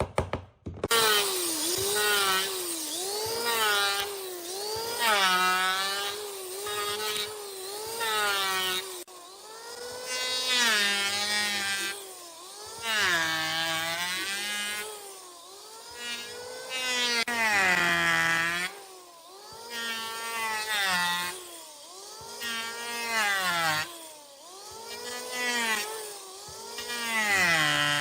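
Power tool motor cutting wood, its pitch sinking under load and climbing back again every second or two as it bites in and eases off. It starts just under a second in.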